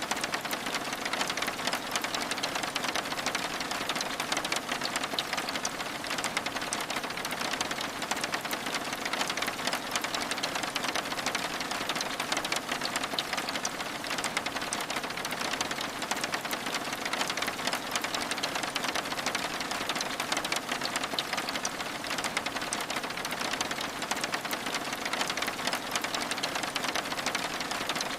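Steady rain, a dense, even patter of many small drops on window glass.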